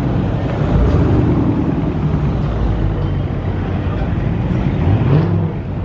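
Dodge Scat Pack's V8 engine rumbling as the car drives past, revving up briefly near the end.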